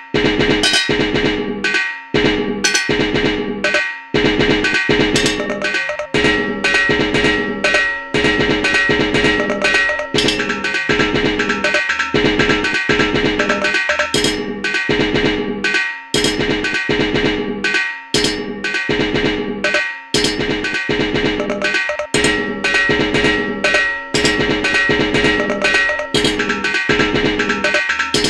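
A looped electronic groove built from sampled household sounds: metallic knocks like cowbell hits in a steady repeating rhythm, with held ringing tones underneath.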